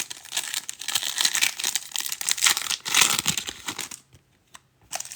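Foil trading-card pack wrapper crinkling and being torn open, a dense crackle that stops about four seconds in, followed by a few light clicks.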